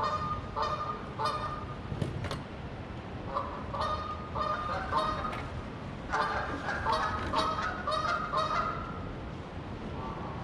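Geese honking: short repeated calls in bouts with brief pauses, with several calls overlapping in the busiest stretch past the middle.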